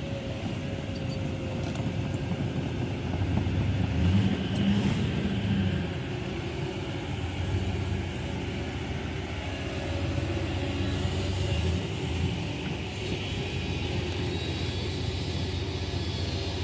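Heavy diesel engine of earth-moving equipment running under load, a steady low rumble that swells about four seconds in and again around eleven seconds, with a faint steady whine over it.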